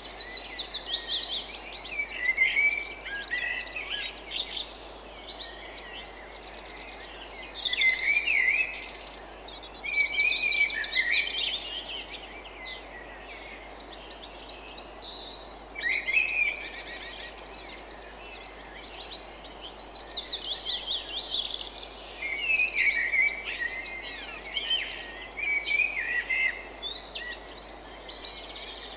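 Wild birds singing in bouts of quick, warbled and chirping phrases that come and go every few seconds, over a steady background hiss.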